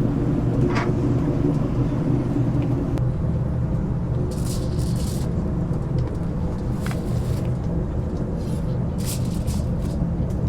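A steady low machine hum, with brief hissing or scraping noises every few seconds.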